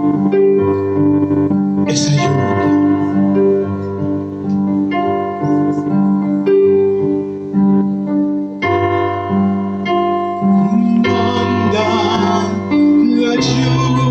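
Keyboard playing slow worship music in sustained chords that change every second or two.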